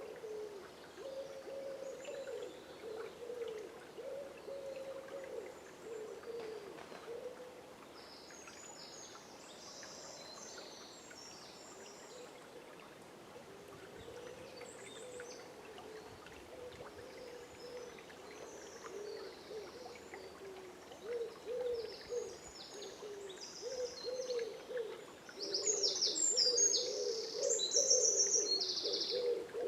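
Dawn forest birdsong: low hooting calls repeat through the whole stretch, and high, quick songbird chirps join in, getting louder and busier near the end. A faint steady wash of river water runs underneath.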